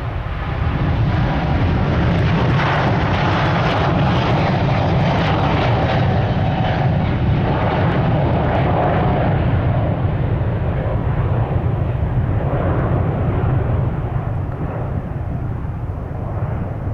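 Jet airliner engines at take-off power, a loud rumble with a crackling edge as the aircraft passes and climbs out. The higher part of the sound dies away after about ten seconds as it moves off, leaving a lower rumble.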